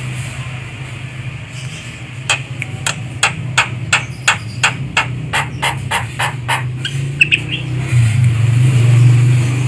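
Javan myna calling: a rapid run of harsh notes, about four a second, followed by a few short higher chirps. A steady low hum runs underneath and grows louder near the end.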